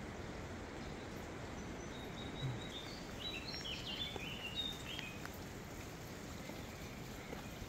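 A songbird singing a short run of high chirps and brief whistled notes, from about two seconds in to about five seconds in, over a steady outdoor background noise.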